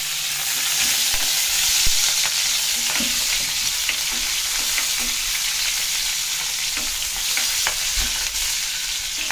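Chopped green chillies, ginger and garlic sizzling in hot oil in a kadai, stirred with a spatula, with a few light clicks of the spatula against the pan.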